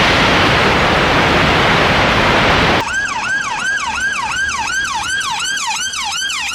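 A loud, even rushing noise that cuts off abruptly about three seconds in. An emergency-vehicle siren follows, wailing in a fast yelp that sweeps down in pitch about three times a second.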